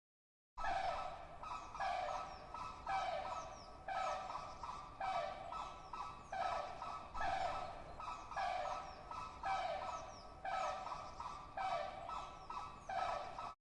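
A bird, fowl-like, calling over and over, about one call a second in an even rhythm.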